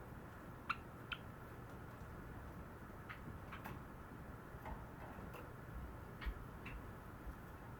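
Cherry (sakura) Java sparrow making short clicking notes, about ten of them spread irregularly, faint.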